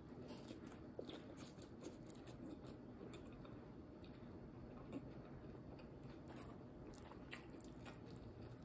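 Faint chewing of a mouthful of fried egg: soft mouth sounds with scattered small clicks.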